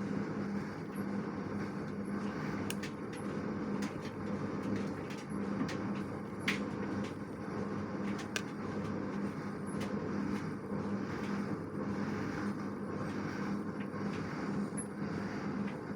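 LG direct-drive washing machine running, a steady hum with a few light clicks.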